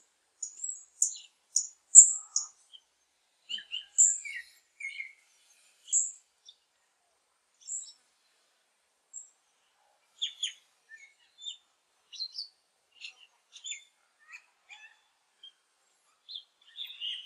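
Birds chirping: short, high-pitched chirps, several in quick succession in the first few seconds, then sparser calls.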